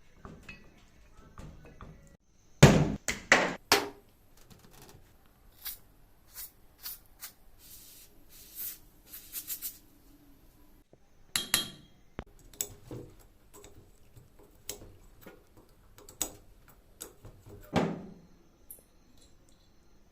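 Irregular metal knocks, clanks and clinks from a rusty hydraulic jack being handled and worked on, with a run of loud knocks about three seconds in.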